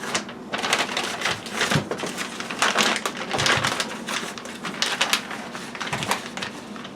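Plastic vacuum-sealer bag crinkling and rustling as it is handled, in irregular crackles.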